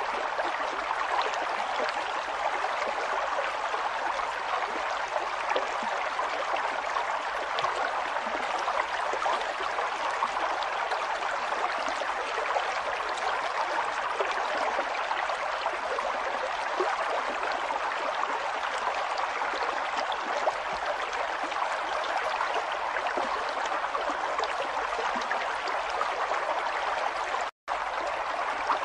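River water flowing steadily over stones, an even rush of running water. It cuts out completely for a split second near the end.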